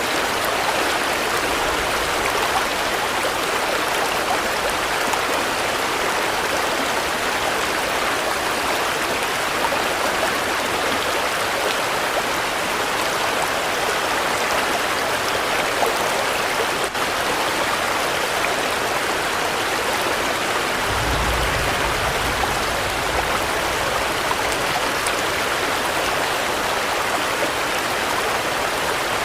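Steady rain falling, an even hiss of water without a break. About two-thirds of the way through, a short low rumble sits under it.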